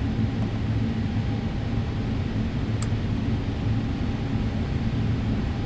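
Steady low drone of a Boeing 777-300ER cabin during taxi, with a faint steady tone above it and one brief click about three seconds in.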